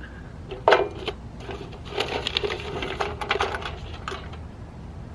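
Small geocache trinkets clicking and rattling as they are handled and rummaged through in an ammo can: one sharp knock about a second in, then a quick run of small clicks and rattles in the middle, ending with a last click.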